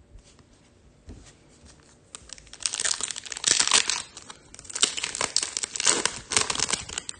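A foil trading-card pack wrapper being torn open and crinkled, loudly, in several swells from about two and a half seconds in.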